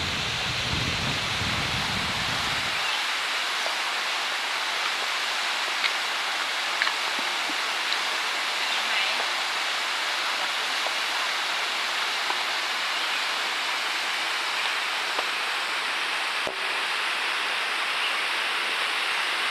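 Khlong Plu waterfall rushing, a steady hiss of falling water, with a low rumble under it that cuts off about three seconds in.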